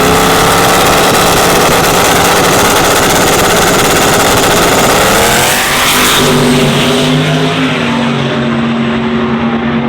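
Racing truck engine at full throttle for about six seconds, then letting off to a lower, steadier engine note.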